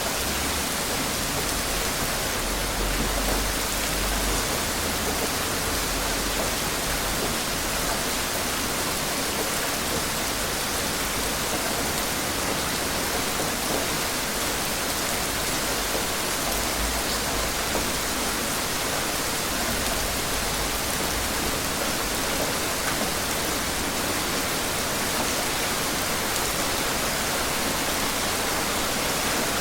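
Steady heavy rain falling, an even hiss with no distinct drops or thunder.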